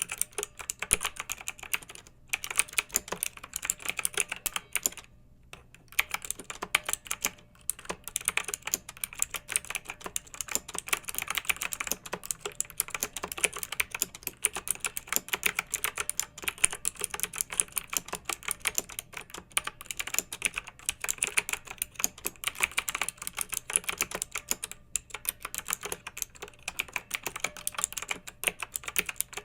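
Clicky mechanical keyboard being typed on in fast, steady runs of keystrokes, with short pauses about two, five and seven seconds in.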